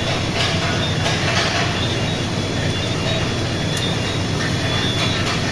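Steady factory machinery noise with a thin high whine running through it and a few faint clicks.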